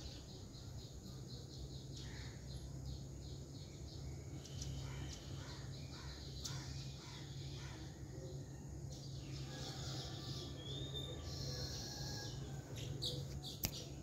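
Small birds chirping in runs of short, high, repeated notes, over a steady low hum, with one sharp click near the end.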